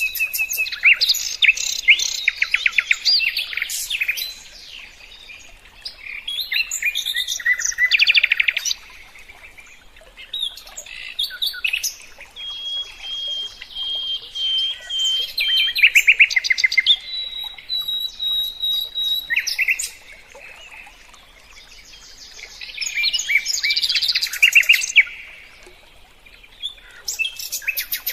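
A songbird singing: runs of quick, high chirps and trills, and a few short held whistles, broken by brief pauses.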